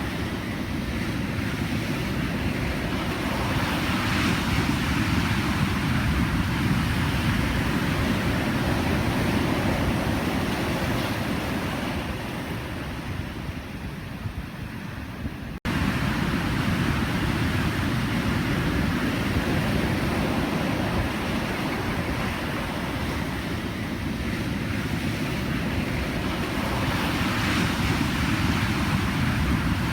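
Pacific Ocean surf: a continuous wash of breaking waves that swells and eases. About halfway through it drops away for an instant and comes straight back louder.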